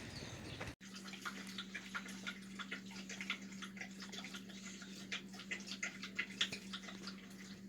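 A dog lapping water in quick, irregular wet laps, several a second, over a steady low hum.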